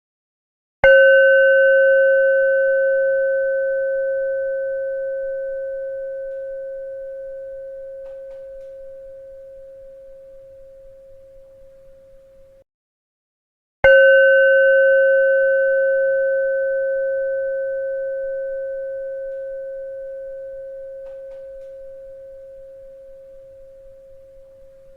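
A bell struck twice, about thirteen seconds apart. Each strike rings with a pure, steady tone and a few higher overtones, fading slowly over about twelve seconds.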